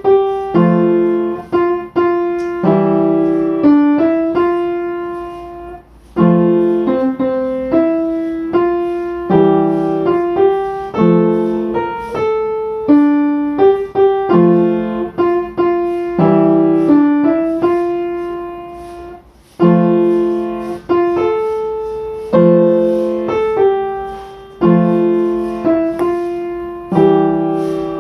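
Background music: slow solo piano playing phrases of struck notes that ring and fade, with short pauses between phrases.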